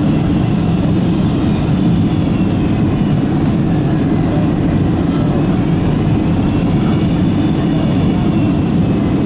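Boeing 777-200 cabin noise: a steady, loud rumble of the jet engines and rushing air, heard from inside the passenger cabin, with faint high engine whines that drift slowly in pitch.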